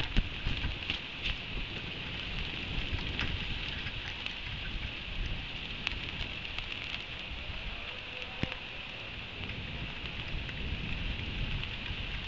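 Steady rain shower falling on the nest ledge and its metal railings, a constant hiss with scattered sharp drop taps.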